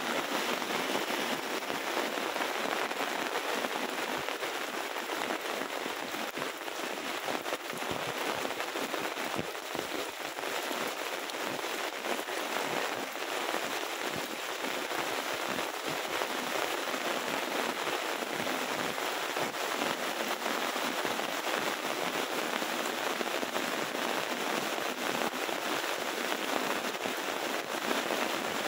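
Heavy rain falling steadily: an even hiss made of countless close drop hits.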